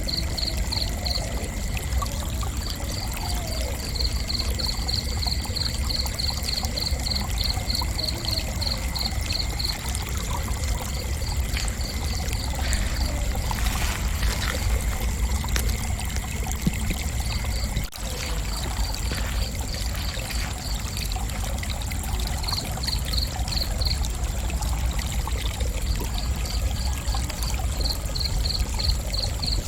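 Crickets chirping in runs of quick, evenly spaced high pulses that stop and start every few seconds. Underneath are a steady high insect buzz and a lower steady buzz that cuts off about two-thirds of the way in, over a continuous low rushing noise.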